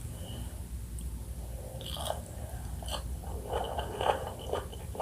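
Close-miked biting and chewing of pomelo segments, irregular short wet crackles that come thickest a little past the middle.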